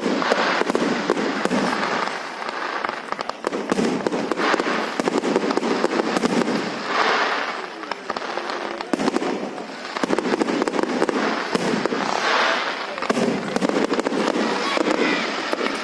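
Fireworks going off in a dense, continuous barrage of bangs and crackling pops. Louder swells of crackle come about seven and twelve seconds in.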